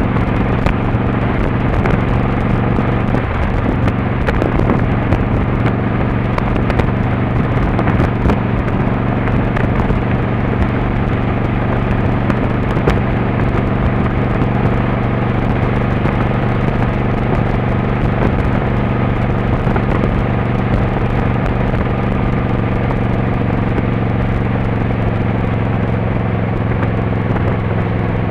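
Motorcycle engine running at a steady cruising speed, with wind rumbling on the microphone.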